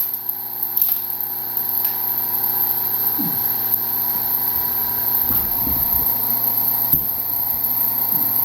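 Electric motor and hydraulic pump of a log splitter running with a steady hum, a few faint brief sounds over it.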